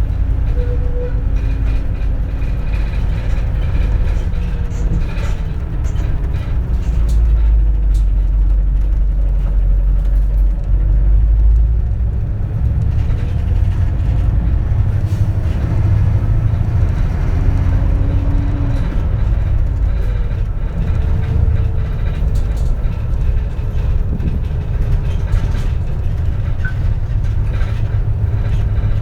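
Interior running sound of a 2004 CNG (compressed natural gas) city bus: a heavy low engine rumble, its pitch rising and falling several times as the bus speeds up and slows.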